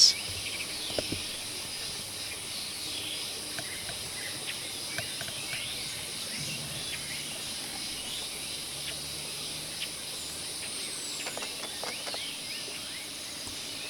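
Tropical forest ambience: a steady high insect drone with scattered faint bird chirps, and a thin falling whistle about ten seconds in.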